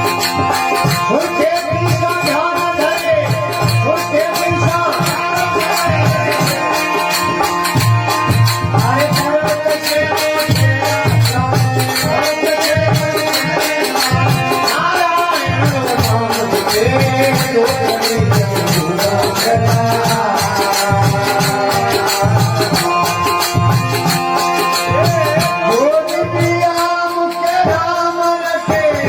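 Rajasthani folk devotional music: an instrumental passage with steady sustained tones, a wavering melody line and dense rhythmic shaker-like percussion with drums.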